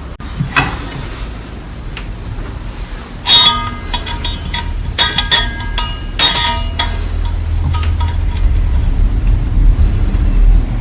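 Several sharp metallic clinks and knocks, each with a short ringing tone, clustered in the middle, over a steady low rumble.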